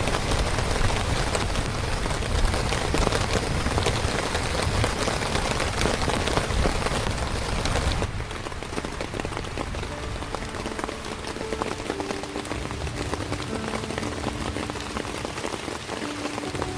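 Heavy rain falling steadily with dense patter of drops; about halfway through it changes suddenly to a quieter, thinner rain sound. Soft, sustained music tones come in beneath the rain in the second half.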